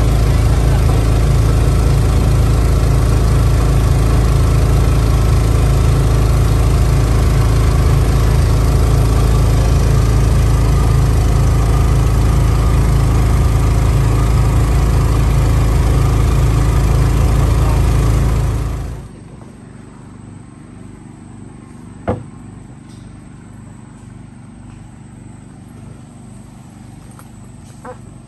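An engine running steadily at an even pitch, stopping abruptly about two-thirds of the way through. A much quieter background follows, with a couple of sharp clicks.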